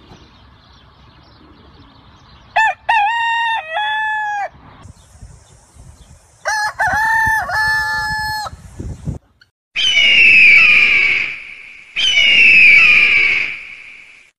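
Rooster crowing twice, each crow a few short notes followed by a long held one. After a break, two louder, shrill calls with falling pitch from another animal.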